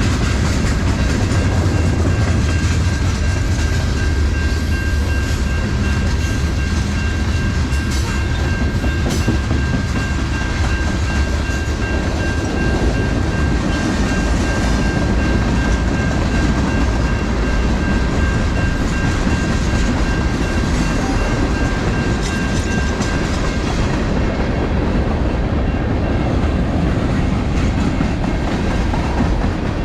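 Train rolling past, its wheels clacking over the rail joints with a steady low rumble. A thin steady high whine rides over it and stops about 24 seconds in.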